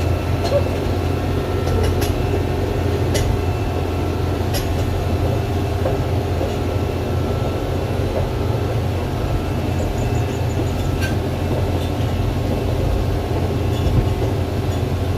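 Doosan 420LC excavator running steadily as it travels along a road: a constant low engine hum with occasional sharp clanks.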